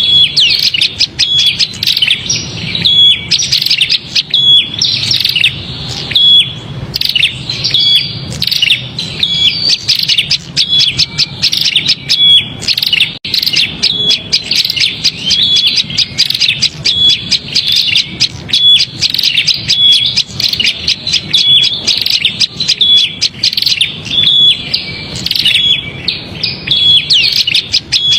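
Prinia (prenjak) giving fast, loud, unbroken chattering calls, with a short clear note recurring about once a second. This is the agitated 'prenjak ribut' call, played as a lure for trapping small birds.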